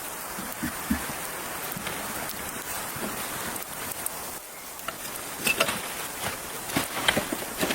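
Steady hiss of rain falling. In the second half there is a run of sharp knocks and clicks.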